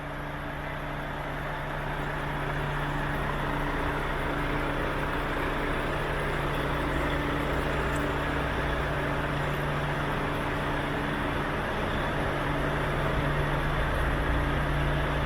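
Volvo FH 500's six-cylinder Euro 5 diesel engine idling steadily with a constant low hum, rising over the first couple of seconds.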